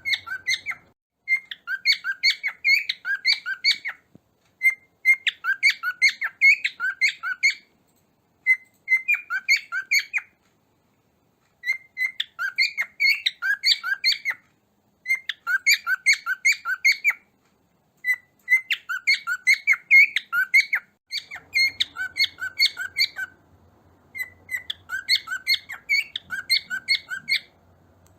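Cockatiel giving bursts of rapid, high chirping calls, each run lasting two or three seconds with short pauses between.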